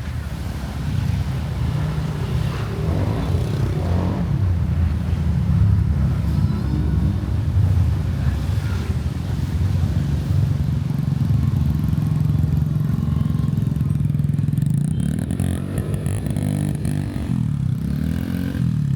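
Motorcycle engine running steadily while riding, its pitch rising and falling a few times near the end as the throttle changes.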